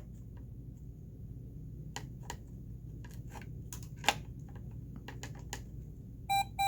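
Light, scattered clicks and taps from handling a talking toy's opened circuit board while probing it, then a short electronic beep from the toy near the end.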